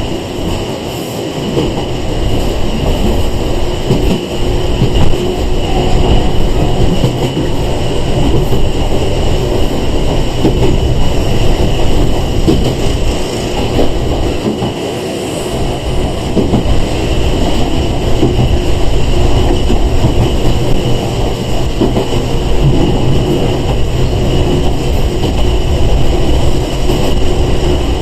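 Running sound inside the carriage of a Sangi Railway 101 series electric train (ex-Seibu 401 series) moving along the line: steady wheel-on-rail rumble with clatter over the rail joints and a constant high whine.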